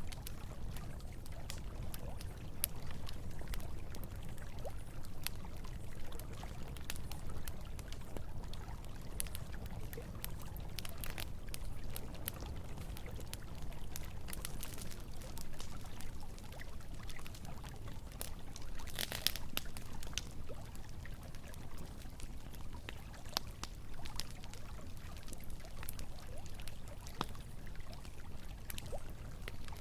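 Campfire crackling and popping over a steadily flowing stream, with a denser flurry of pops about two-thirds of the way through.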